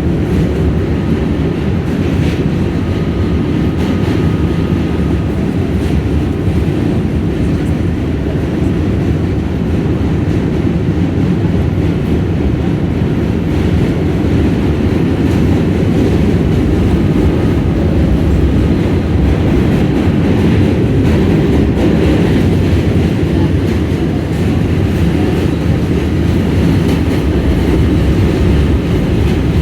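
New York City subway train running on the track: a loud, steady low rumble of wheels and cars that does not let up.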